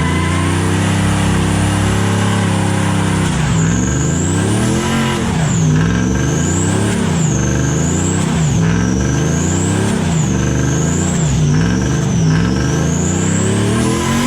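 An engine idles steadily, then is revved in a string of about six blips, each rising and falling. A high whine climbs and drops with each rev.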